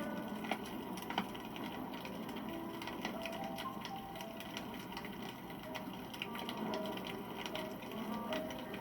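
Campfire burning with dense, rapid crackling of the wood, two sharper snaps about a second in, and short thin whistles.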